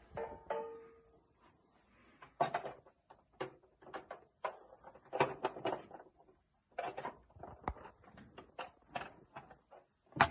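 Plastic parts of an automatic coffee machine's drip tray being handled: a string of knocks, clicks and clatters, with a short squeak at the start.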